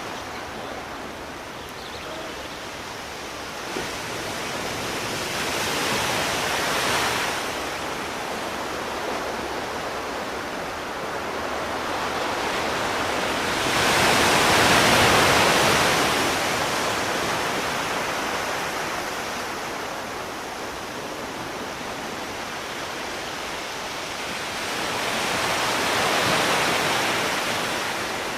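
Sea waves washing onto the shore, a continuous rushing surf that swells and ebbs. It surges three times, the biggest wave breaking about halfway through.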